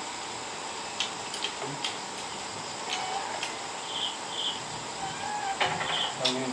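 Scattered light clicks of chopsticks and tableware against bowls during a meal, over a steady background of insects, with short high chirps repeating about twice a second in the second half.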